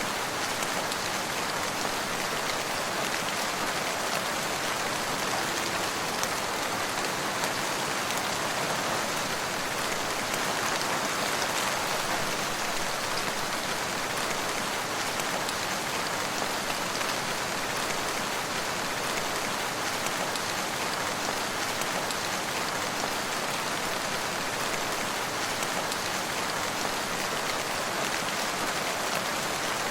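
Steady rain falling, an even, unbroken patter of raindrops.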